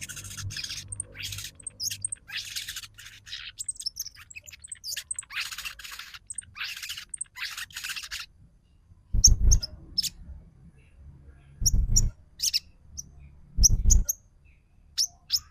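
A sogon sunbird sings its rapid 'trotol' chatter, a dense run of fast rattling notes, for about the first half. After a short pause it gives sparse, sharp, high single chirps, broken by three loud low thuds.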